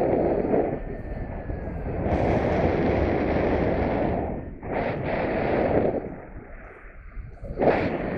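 Strong wind buffeting the microphone in flight, a loud rumbling rush that swells and drops off in about four gusts.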